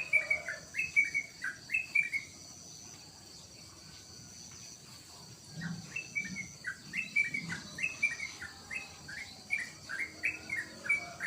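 Yellow-vented bulbul (trucukan) singing quick bubbly phrases of short falling notes, several a second, pausing for about three seconds partway through before starting again. A faint steady high insect-like buzz runs underneath.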